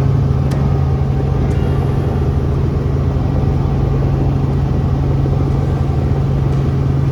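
Helicopter cabin noise in flight: a loud, steady low drone of engine and rotors.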